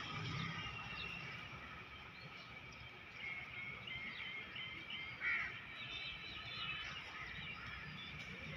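Birds chirping and calling over a steady outdoor background hum, with one louder call about halfway through.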